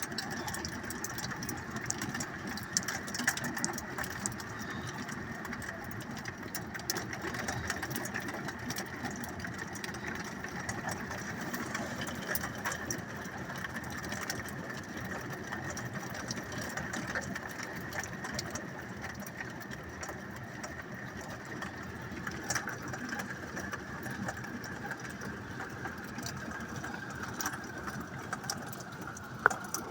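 Rain with scattered small hailstones ticking, over a steady engine-like hum, with many irregular sharp clicks throughout.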